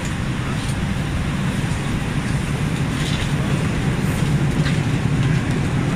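Steady low hum of a Boeing 737-800's cabin air system at the gate, with a few faint knocks as bags are pushed into the overhead bins.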